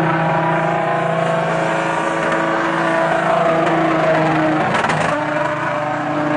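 A drifting SUV's engine held at high revs while its rear tyres spin, with a brief dip and sweep in engine pitch about four to five seconds in.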